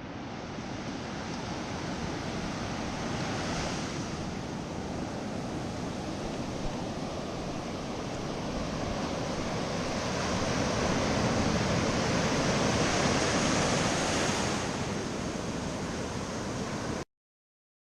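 Ocean surf washing in: a steady rush of breaking whitewater waves that swells louder in the second half, then cuts off abruptly near the end.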